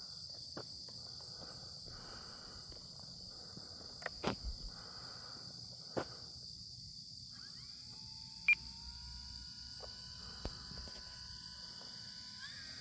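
A steady, high-pitched insect chorus. In the second half, the faint whine of the RC Cessna's electric motor comes in and rises in pitch near the end. A few scattered clicks, the sharpest about eight and a half seconds in.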